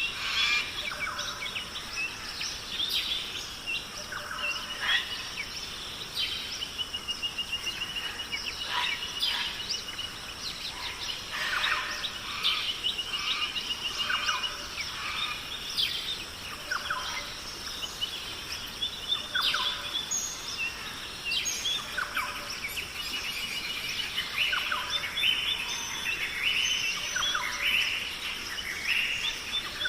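Several wild songbirds calling and singing at once: many short chirps and quick trills overlapping, over a steady background hiss.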